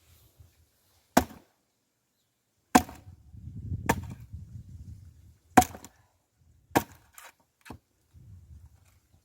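An axe splitting firewood logs: five sharp chopping strikes on wood, a second or so apart, then two lighter knocks near the end, with a low rumble between some of the strikes.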